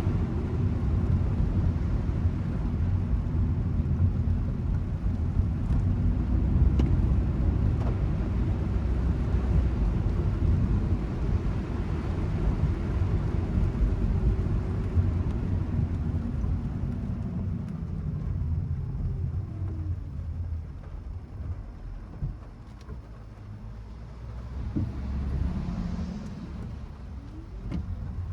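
Car road and engine noise heard from inside the cabin while driving: a steady low rumble that eases off about two-thirds of the way through, then picks up again near the end.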